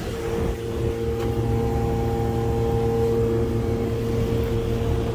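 Ruud Achiever 10 central air conditioner condensing unit running, a steady multi-tone hum from its compressor and fan; the recordist reckons it probably has a slow compressor.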